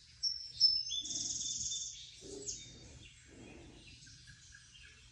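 Small songbirds chirping and twittering: a few quick high chirps, then a bright trill about a second in, with scattered calls after.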